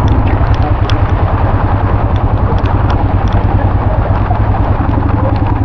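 Royal Enfield Himalayan motorcycle's single-cylinder engine idling with a steady, fast low thump, with scattered light ticks over it.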